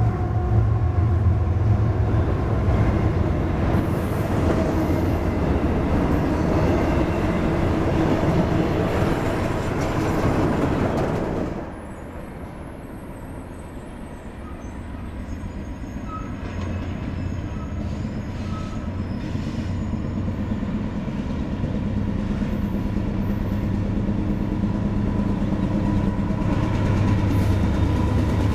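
Freight train of empty intermodal well cars rolling past, a dense, steady run of wheel and rail noise that cuts off abruptly about a third of the way in. Then two GE diesel locomotives, a C40-9W leading a C40-9, approach under power, their engines growing steadily louder until they pass close by near the end.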